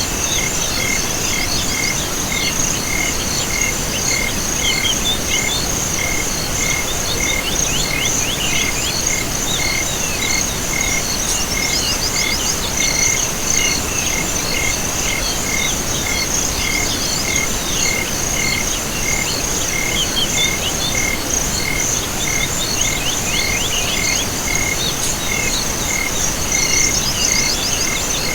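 Night chorus of insects and frogs: a steady high-pitched insect trill, a regular chirp repeating about twice a second, and scattered bursts of quick chirping calls, over a steady hiss.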